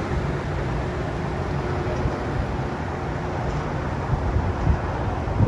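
Wind buffeting the microphone over a steady outdoor background rumble, with a brief low thump near the end.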